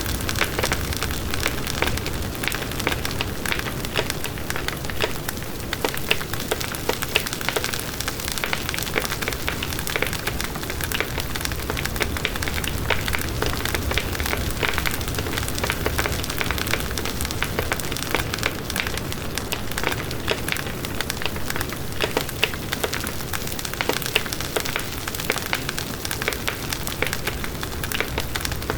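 Campfire burning steadily, the wood crackling with many small pops over a low rumble of the flames.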